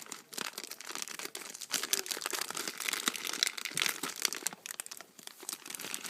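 Plastic toy packaging being crinkled and torn open by hand, a steady run of irregular crackles.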